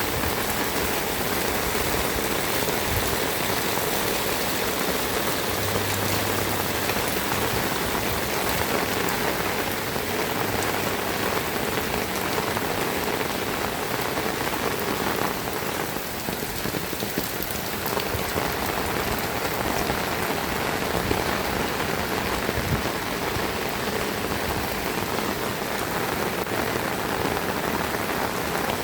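Heavy rain falling and pattering on surfaces, a steady dense hiss with a slight lull about halfway through.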